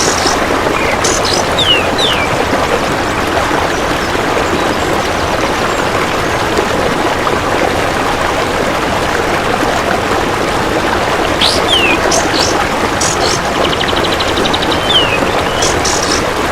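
Steady rushing water like a stream runs throughout. Over it, a songbird gives short sharp calls with quick downward-sliding whistles, about a second in and again around 11 to 13 seconds. A rapid buzzing insect-like trill comes near 14 to 15 seconds.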